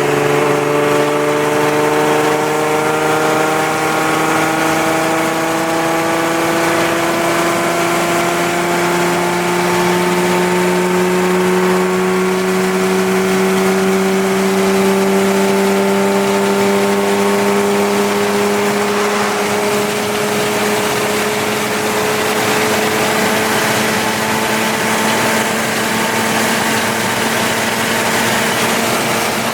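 Audi B5's 2.8-litre 30-valve V6 running through a straight-pipe exhaust under steady cruise, its pitch rising slowly and evenly as the car gains speed in one gear.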